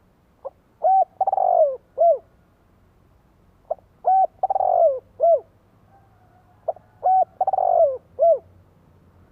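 Spotted dove cooing, three repeated phrases about three seconds apart: each a short note, two clear coos, a longer burry coo falling in pitch, and a closing coo.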